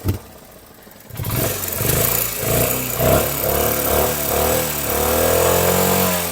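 Royal Enfield Hunter 350 single-cylinder engine running and being revved up and down from about a second in, with a foot pressed on the exhaust. A light tappet noise is still there after the cylinder head was replaced.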